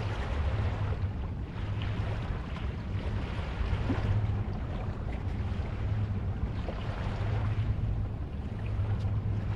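Ocean waves ambience: a steady wash of surf with a low rumble underneath, swelling and easing gently every few seconds.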